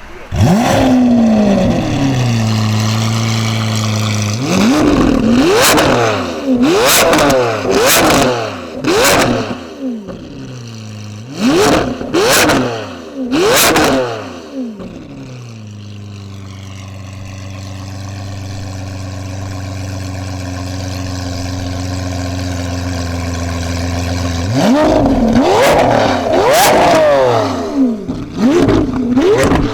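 Lamborghini Aventador's V12 engine through an iPE aftermarket exhaust, starting up with a flare that settles into a steady idle, then revved hard several times, each rev rising and falling with sharp pops and crackles on the overrun. After a long idle, near the end it is blipped rapidly again and again.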